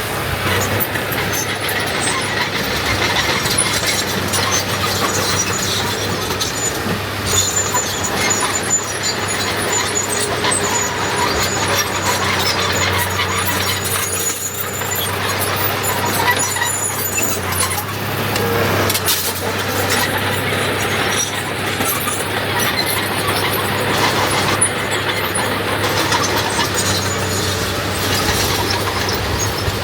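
Heavy diesel earthmoving machinery running steadily under load, with high-pitched metallic squeals coming and going.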